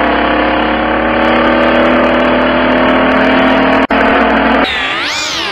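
Car engine running steadily, its pitch creeping slowly up. After a short break near four seconds it revs sharply up and begins to fall again near the end.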